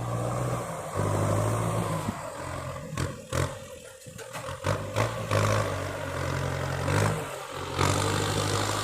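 Kubota tractor's diesel engine running in the field, a steady low drone that fades for a couple of seconds about two seconds in, among a run of sharp clattering knocks, then comes back.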